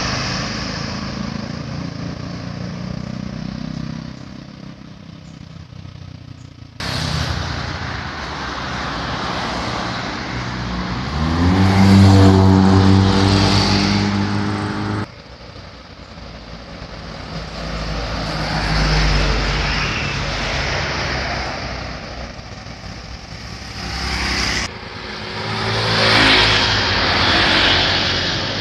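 Road traffic at a signalled junction, with vehicles passing and pulling away. About eleven seconds in, one engine accelerates away with a rising drone, which is the loudest part. The sound breaks off and changes abruptly about a quarter, halfway and most of the way through.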